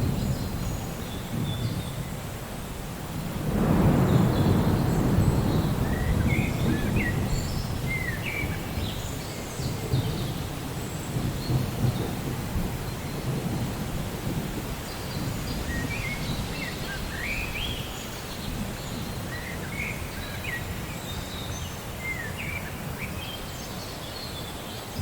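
Steady rain during a thunderstorm, with a roll of thunder rumbling up about three and a half seconds in and slowly fading. Short high chirps come through the rain now and then.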